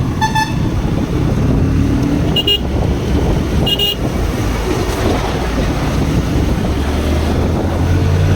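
Motorcycle riding on a road: wind buffeting the microphone over the engine and traffic noise. A short horn toot sounds near the start, and two brief high beeps come about a second apart around the middle.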